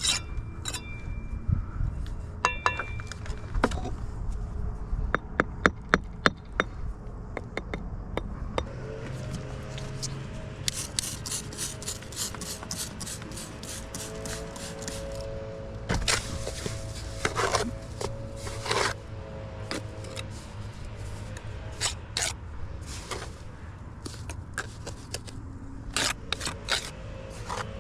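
Bricklaying: a trowel scraping mortar and tapping bricks into place, in a run of sharp taps and scrapes that is busiest in the first several seconds. Background music comes in about nine seconds in and carries on under scattered taps.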